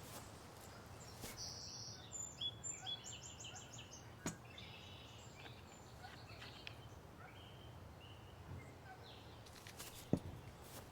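Small birds calling in a pine forest: a quick run of short high chirps about two seconds in, then scattered calls. A sharp click about four seconds in and a low knock near the end.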